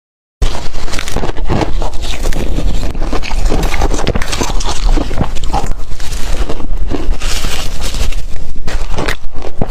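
Ice being crunched and chewed close to the microphone: a dense run of loud, irregular cracks and crunches that starts abruptly about half a second in.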